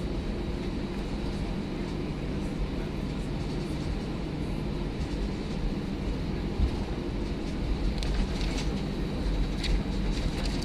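Airbus A319 cabin noise heard from the front row: a steady rumble from the engines and airframe, with a few low steady tones. Light rattling knocks come in over the last few seconds.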